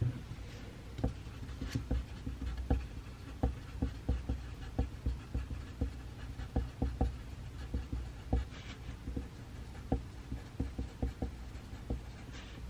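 Pencil writing on paper on a desk, with irregular taps and strokes and a few brief scratches, over a steady low room hum.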